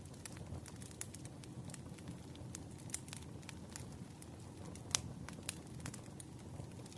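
Firewood burning, with frequent irregular crackles and pops over a low, steady rumble of flames; one louder pop about five seconds in.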